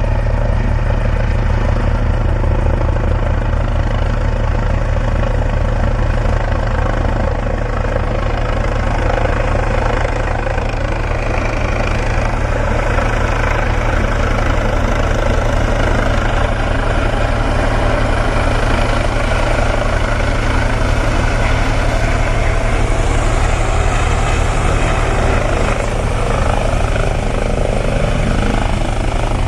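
Helicopter running close by, its rotor beating in a fast, steady low pulse over a loud engine and turbine noise.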